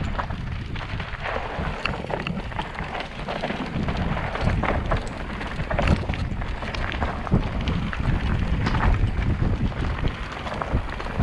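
Wind buffeting the microphone in gusts, with irregular sharp steps and clicks on rocky ground.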